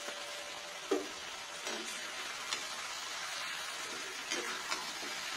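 Chicken pieces and spices frying with a steady sizzle in a kadai of hot oil, while a spatula stirs through them. A short knock of the spatula against the pan comes about a second in, followed by a few lighter scrapes.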